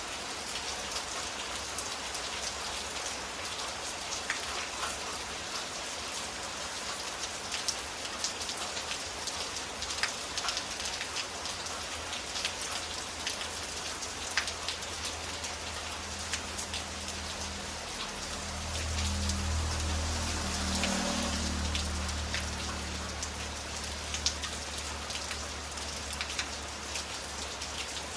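Steady rain falling, with individual drops tapping sharply on a hard surface. A low rumble swells and fades about two-thirds of the way through.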